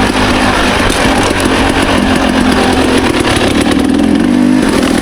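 Dirt bike engine running steadily while riding along a trail, its pitch holding nearly even.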